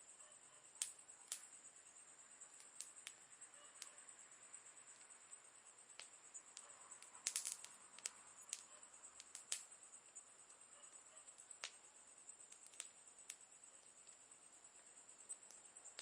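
Campfire crackling: irregular sharp pops and snaps, with a quick cluster of pops about seven seconds in, over a faint steady high hiss.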